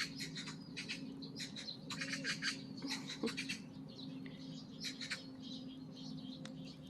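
Small birds chirping repeatedly in quick short notes, over a steady low hum.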